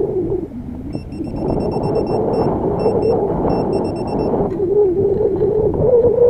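Metal detector audio: a steady, wavering low electronic tone, with a fast run of short, high electronic beeps from about a second in, stopping a little after four seconds, as the detector homes in on a buried target.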